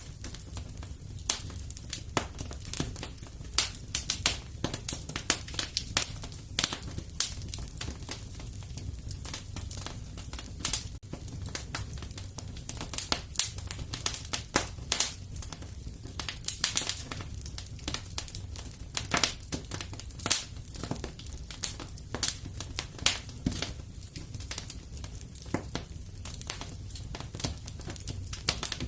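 Fireplace fire crackling, with frequent irregular snaps and pops over a low steady rumble of the flames.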